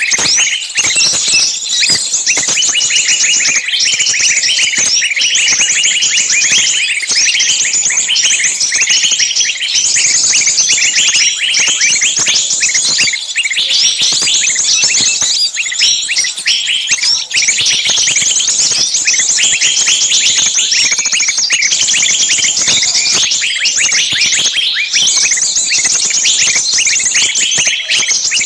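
A dense, unbroken chorus of high chirps and rapid trills, many overlapping at once, like a large flock of small birds calling together.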